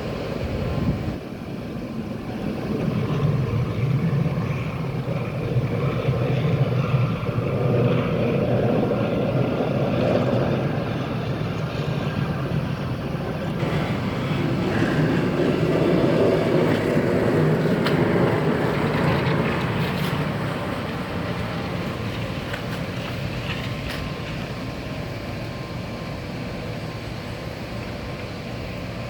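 Snowplow truck engine running as it pushes snow, swelling louder twice under load and then settling to a steadier run.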